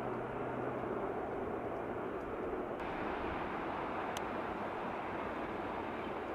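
Steady distant rumble of the Train Jaune, a small yellow electric metre-gauge train, running along the valley floor.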